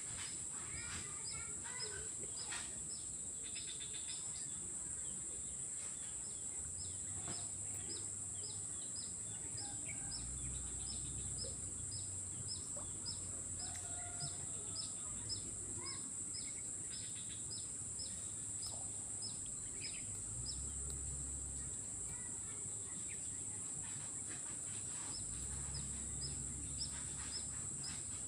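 Outdoor swamp ambience: a steady high-pitched drone, a short chirp repeating about twice a second, and scattered bird calls, some of them fowl-like clucks.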